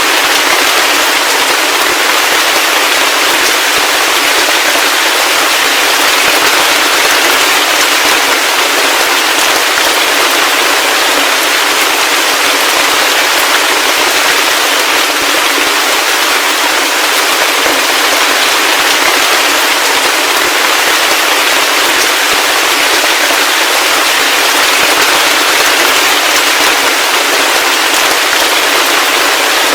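Heavy rain falling steadily: a dense, even hiss of close, crackling drops, with no deep rumble under it.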